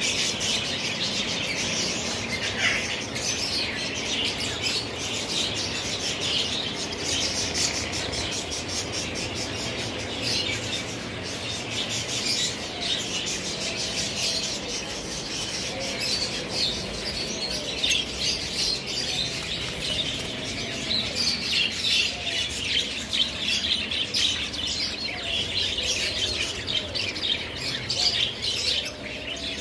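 Many small caged birds chirping at once in a dense, continuous chatter, with occasional lower warbling calls and some wing flapping mixed in.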